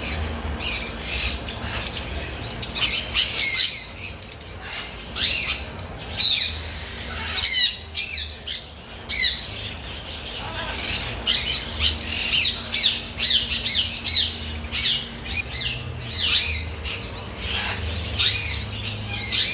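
A group of birds calling together: many short, downward-sliding chirps and squawks overlap without a break.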